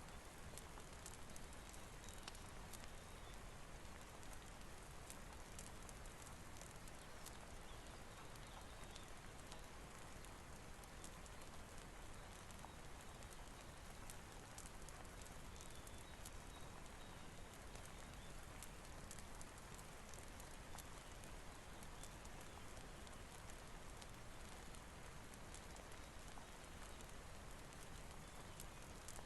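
Steady rain hiss mixed with the crackle of a wood fire, with short sharp pops scattered through it.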